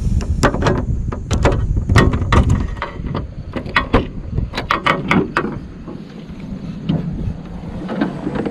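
Irregular knocks, clicks and clatter of objects being handled and moved inside a car, in quick clusters through the first five seconds or so, then sparser and quieter.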